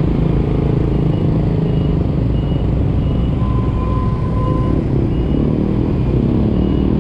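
A small Yamaha FreeGo scooter, around 125 cc, running steadily at riding speed in city traffic. Short high beeps repeat faintly about every 0.7 s, and a single held tone of just over a second comes about three and a half seconds in.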